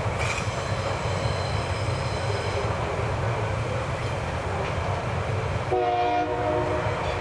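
Freight train wagons rolling over the rails with a steady low rumble. About half a second in, a high-pitched wheel squeal rises and lasts a couple of seconds. Near the end the locomotive's horn sounds once, for about a second.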